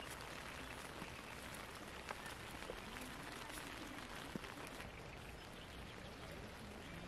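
Rain falling on a tent, heard from inside: a faint steady hiss with scattered individual drop taps.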